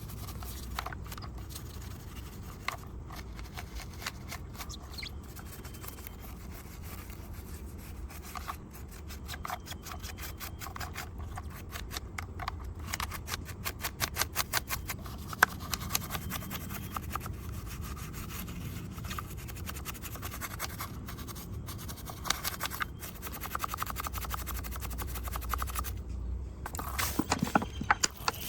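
Close-up rubbing and scrubbing on a small diecast model car, a run of rapid fine scratchy strokes.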